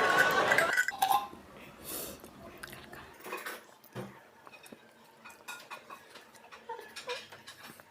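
Spoons and forks clinking and scraping on plates as people eat, a scattering of short light clicks. Laughter dies away in the first second.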